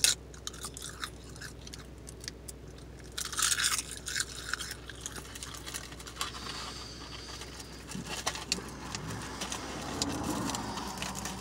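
A bite into a crisp sheet of dried roasted seaweed, then chewing it with many small dry crunches. Rustling of the snack's packet comes in around the middle.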